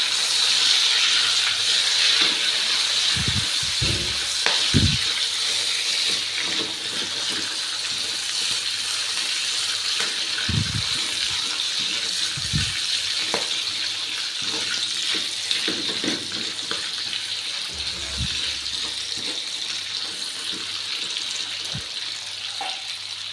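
Hot oil sizzling steadily in a stainless steel wok as freshly added sawi greens and chicken stir-fry, the hiss slowly dying down. A plastic spatula knocks and scrapes against the wok a few times.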